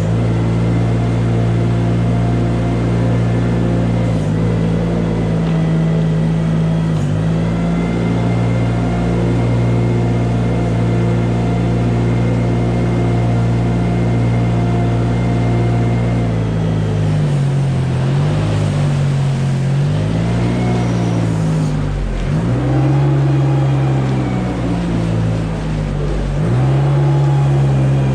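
Engine of farm machinery running steadily, then its speed repeatedly dips and rises from about two-thirds of the way in.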